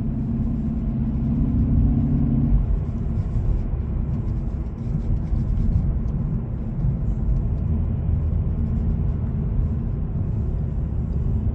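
2018 Hyundai Elantra's 2.0-litre four-cylinder engine running at light load while driving, heard from inside the cabin with low road rumble. Its tone changes about two and a half seconds in.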